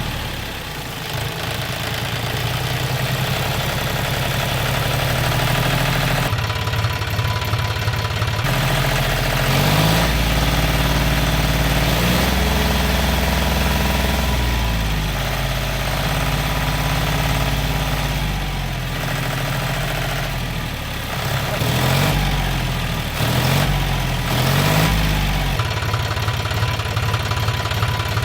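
Mini tractor's small engine running steadily, its speed rising and falling briefly several times, mostly in the second half.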